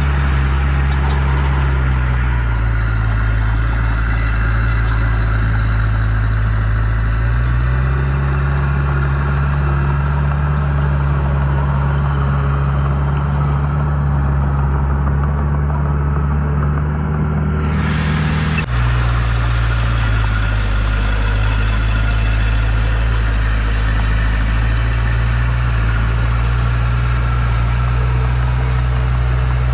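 Heavy construction machine's diesel engine running steadily at low revs. Its pitch steps up slightly about a quarter of the way in, and the sound changes abruptly about two-thirds of the way through.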